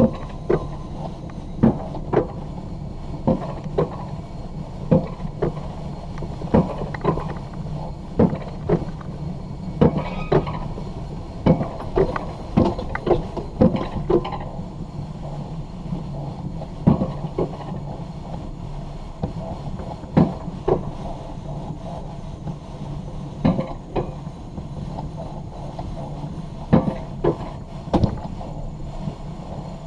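Alpine coaster sled being hauled up the lift hill on its stainless steel tube track: a steady low hum with a clack about once a second.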